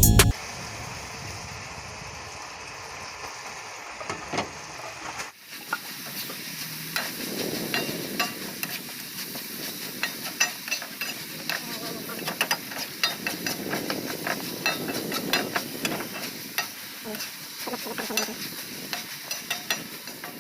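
Chicken stir-frying in a pan, a steady sizzle with a spatula clicking and scraping against the pan as it is stirred. The sizzle and stirring grow busier after a cut about five seconds in.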